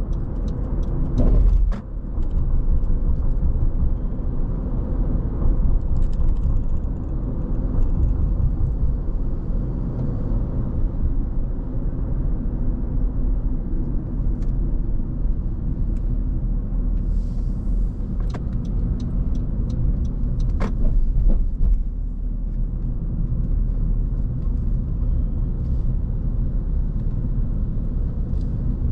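Car driving along a road: a steady low rumble of road and engine noise, with a few brief clicks or taps.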